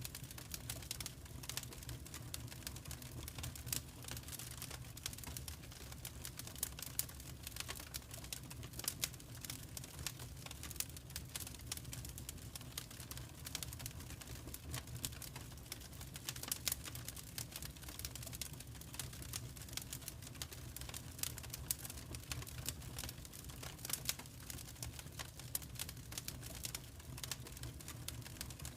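Wood fire crackling: irregular sharp pops and snaps, a few a second, over a low steady rumble.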